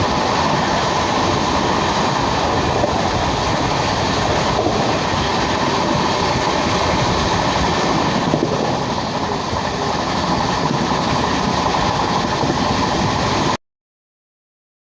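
Azad Hind Express train with LHB coaches running on the track: a steady rumble and rattle of wheels and coach. It cuts off suddenly near the end.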